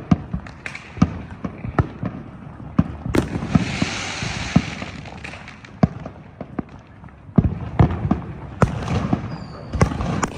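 Fireworks and firecrackers going off all around: irregular sharp bangs, with a hissing crackle a few seconds in and a dense run of reports near the end.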